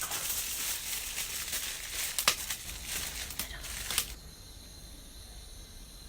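Wood campfire burning well and crackling, with sharp pops about two seconds in and again near four seconds. The crackling cuts off suddenly about four seconds in, leaving a faint steady hiss with a thin high whine.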